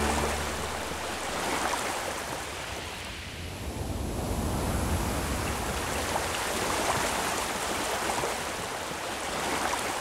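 Recorded nature ambience of rushing water: an even wash of water noise that swells and eases in slow surges, dipping about three to four seconds in and building again.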